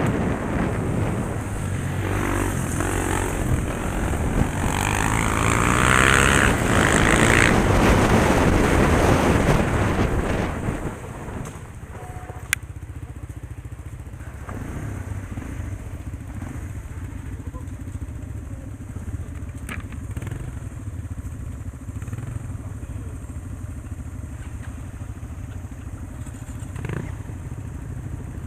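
Motor vehicle engine and road noise, loud for the first ten seconds or so, then dropping to a steadier, quieter running sound with a few light clicks.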